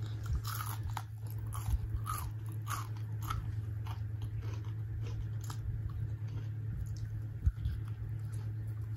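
Close-up biting and crunching into a piece of fried mini chicken coated in spicy mayonnaise, then chewing. The crunches come mostly in the first few seconds and give way to softer chewing, with one sharp low thump about seven and a half seconds in, over a steady low hum.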